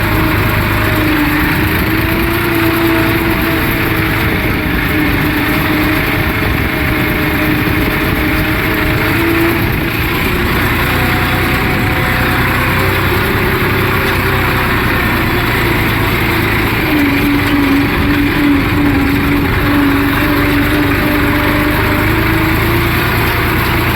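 Tractor engine running steadily under load while pulling a land leveller across the field, its hum wavering slightly in pitch.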